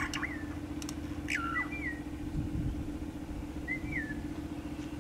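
Glossy starling giving short whistled calls, each note sliding up then down, several times. A vehicle engine idles under them with a steady low hum.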